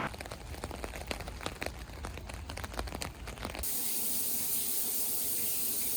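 Rain: scattered drops tapping irregularly over a low rumble, then, after an abrupt change a little past halfway, a steady high hiss of rain.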